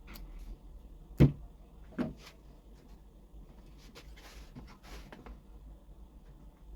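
Handling knocks on a workbench: two sharp knocks about a second and two seconds in, then lighter clicks and a couple of short scraping rustles.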